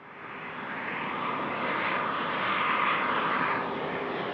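Aircraft engines running loud and steady as an airplane moves along the runway. The engine noise swells up over the first second, then holds steady.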